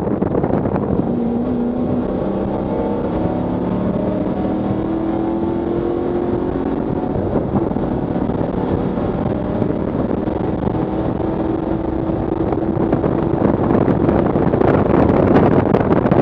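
Ford Mustang track car's engine heard from inside the stripped, caged cabin, its pitch climbing steadily under hard acceleration. Wind and road noise grow louder near the end as speed builds.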